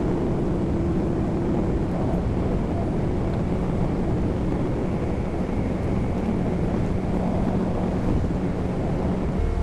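Vehicle engine running steadily under load, with a low hum, while an RV is moved; some wind noise on the microphone.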